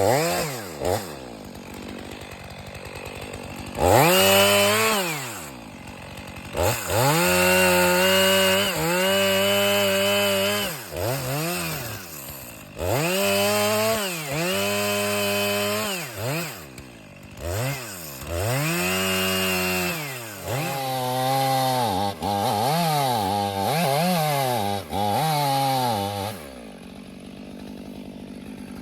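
Two-stroke chainsaw revved up to full throttle and held for a second or two, then let back down toward idle, about six times over. Toward the end come several quicker, shorter revs before the engine sound drops away.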